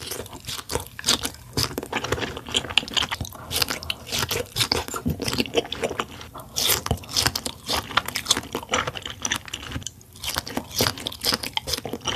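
A person chewing pink dragon fruit: a dense run of crunchy bites and mouth clicks that breaks off briefly about ten seconds in.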